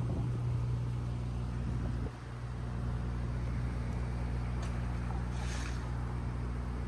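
Straight-piped Dodge Durango exhaust idling with a steady, deep drone, dipping briefly about two seconds in.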